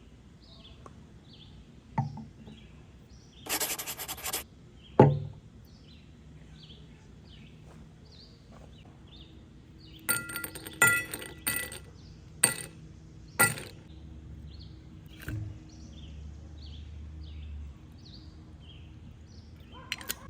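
Glass clinking: a few light knocks, then a run of sharp ringing clinks about halfway through. There is a brief hiss about three and a half seconds in, and a bird chirps repeatedly in the background.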